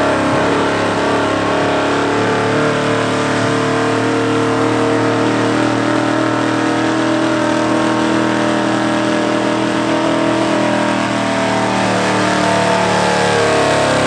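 Gasoline street-class pickup truck's V8 engine held at high revs under heavy load as it drags the pulling sled. The pitch stays nearly steady, with a slight sag and recovery near the end.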